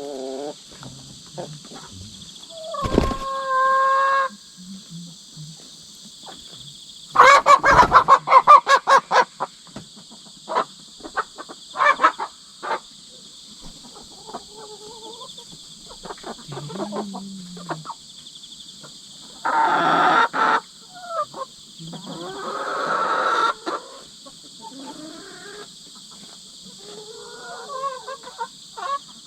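Hens squawking and screeching in a fight over the pecking order, with a loud burst of rapid beats about seven seconds in. Insects chirr steadily behind them.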